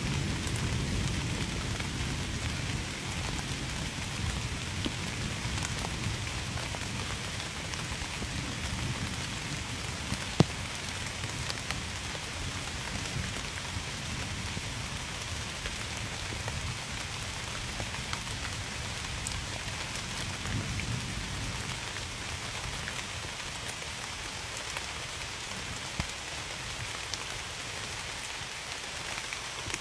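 Steady rain falling, with scattered drops ticking. A low thunder rumble fades over the first few seconds and comes back faintly about twenty seconds in, and a single sharp drop tick about ten seconds in stands out as the loudest sound.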